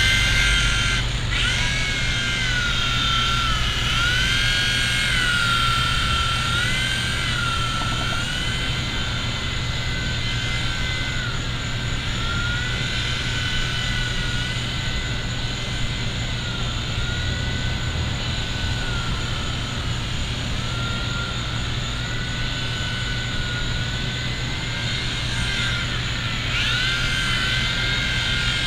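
Small electric motors of a V911 micro RC helicopter whining in flight. The pitch swoops up and down over and over as the throttle changes, rising sharply right at the start and again near the end.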